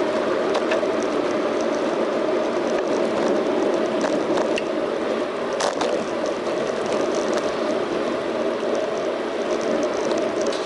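Steady rushing wind and road noise from a bicycle ride, picked up on a bike-mounted action camera, with scattered light clicks and knocks from bumps and the bike.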